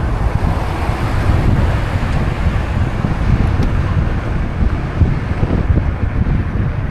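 Wind buffeting the microphone of a moving bicycle's camera: a steady, loud rumble with uneven low gusts, caused by the rider's own speed.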